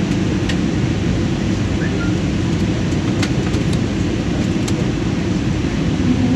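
Steady rumble of engines and airflow inside a passenger airliner's cabin in flight, with a few faint ticks.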